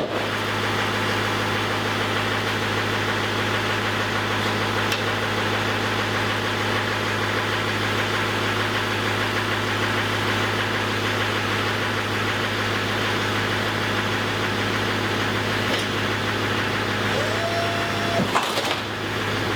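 Vehicle engine idling steadily. Near the end a short whine rises and then holds for about a second.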